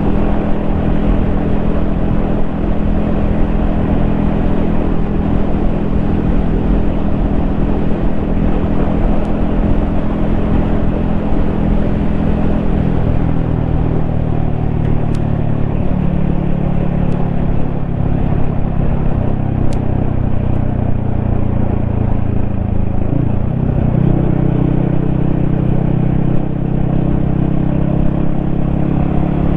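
Yamaha XSR155's single-cylinder engine running steadily under way, heard from the rider's helmet. About 23 seconds in the engine note dips briefly, then settles at a higher pitch.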